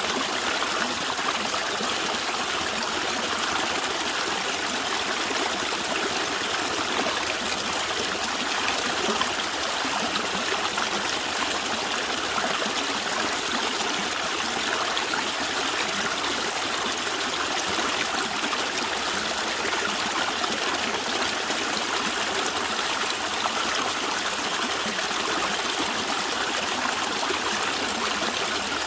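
Stream of water flowing and gurgling steadily, with no change in level.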